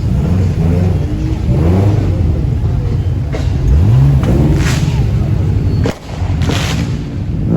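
Car engines running and revving, with one rev rising in pitch about four seconds in, and two short hissing rushes near the end.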